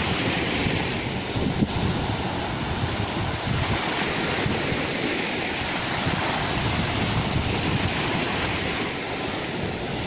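Sea waves surging and washing in, a continuous surf hiss that swells and eases, with wind buffeting the microphone in the low end.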